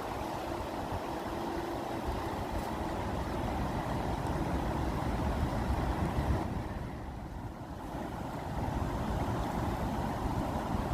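Rushing water making a steady, deep rumble that eases briefly about seven seconds in.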